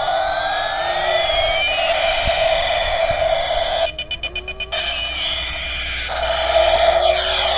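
Battery-operated toy helicopter's electronic sound effects through its small speaker: siren-like tones sweeping up and down over a steady warbling tone, with a rapid pulsing beep about four seconds in.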